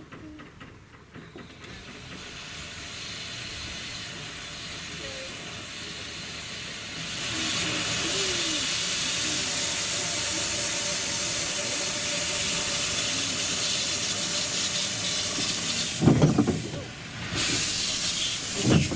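Narrow-gauge steam locomotive letting off steam: a hiss that starts faint, grows much louder about seven seconds in and then holds steady. Two loud bursts break through it, about three seconds before the end and again at the very end.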